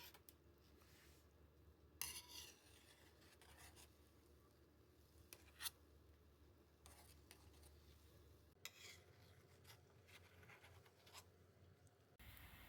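Near silence with a few faint, sharp clicks and light rubbing or scraping, like small handling noises in a kitchen.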